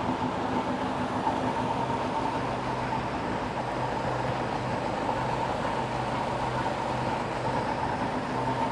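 1998 Volvo Penta 4.3 L GL V6 Vortec sterndrive engine running steadily at one speed.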